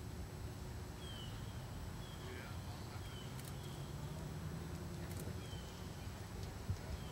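Outdoor background noise with a small bird giving a short, falling chirp several times, roughly once a second, and a single sharp tap near the end.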